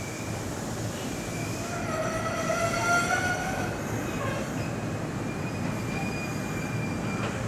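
Kintetsu electric commuter train rolling toward the listener on a curve, with a steady rumble and high-pitched wheel squeal. The squeal is loudest and fullest about two to three and a half seconds in, then thins to a single whistle-like tone near the end.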